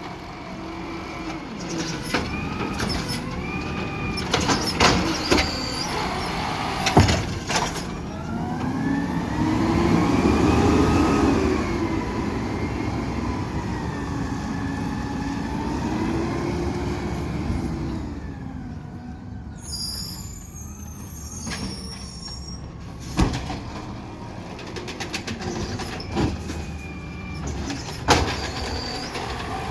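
Garbage truck working: its engine and hydraulics rise and fall in pitch for about ten seconds in the middle, with scattered knocks and clanks throughout.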